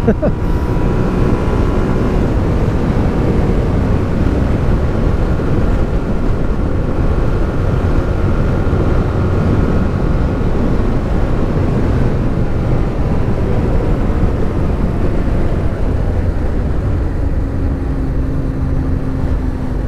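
Motorcycle riding at speed: a steady rush of wind over the helmet microphone with the engine running underneath, its note shifting a little through the curves.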